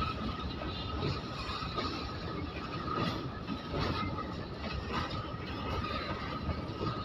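Indian Railways goods train's freight wagons rolling past, with a steady high-pitched ring from the wheels and knocks about once a second.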